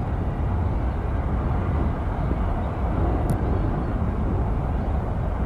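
Aircraft engines heard as a steady low rumble, with one short click about three seconds in.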